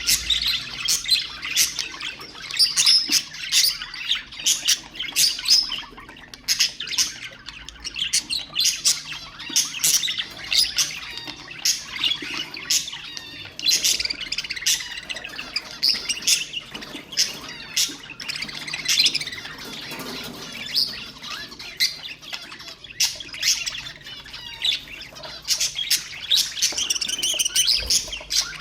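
Budgerigars chattering: a continuous, dense run of quick chirps and squawks.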